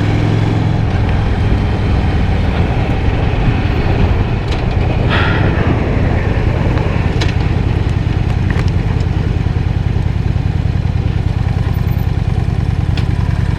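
Honda Shadow 750 V-twin engine running steadily at cruising speed, heard from the rider's seat, with wind rushing over the helmet microphone.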